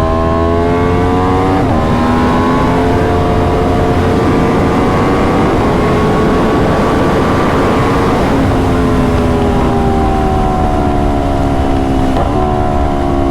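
Aprilia RSV4's V4 engine pulling under load. The revs climb, drop sharply with a quick-shifter upshift about two seconds in, and climb again. It then rolls off with the revs falling steadily and another gear change near the end. Wind rumble on the microphone runs underneath.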